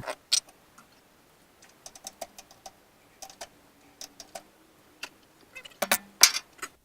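Metal tools clicking and clinking against a lathe's chuck and headstock as the six-jaw chuck is loosened for removal. The clicks come irregularly, a few per second, with the loudest cluster near the end.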